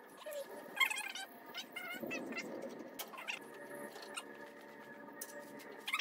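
Small birds chirping in short calls, loudest about a second in, over scattered light clicks and knocks of metal parts being handled.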